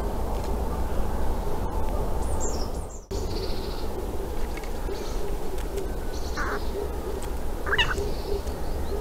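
A few brief bird calls over a steady low rumble of background noise: high chirps early on, then two short calls in the second half, the last one sweeping up and down in pitch.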